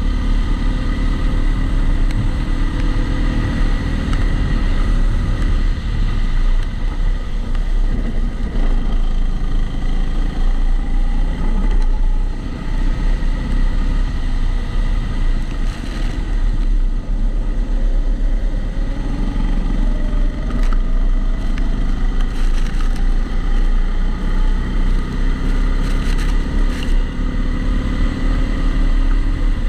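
Rental kart engine heard onboard through a GoPro's protective housing, its pitch rising and falling again and again as the kart accelerates out of corners and slows into them. A heavy rumble runs under it throughout, from the housing.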